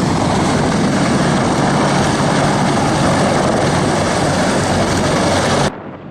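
Helicopter running, a loud steady noise. It cuts off abruptly near the end, leaving a much quieter wind-like hiss.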